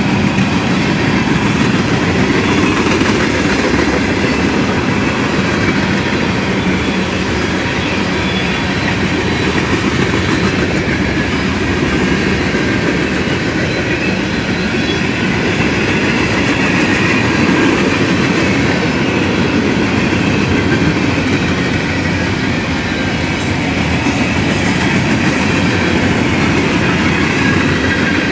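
Freight cars of a mixed freight train, tank cars and hoppers, rolling steadily past: a continuous rumble and clatter of steel wheels on the rails.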